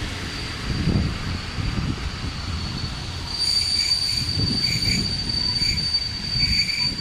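Passenger train coaches rolling past with a low rumble and thumps of the wheels over rail joints; about three seconds in a steady high-pitched wheel squeal sets in and holds, with shorter squeals breaking in and out beneath it.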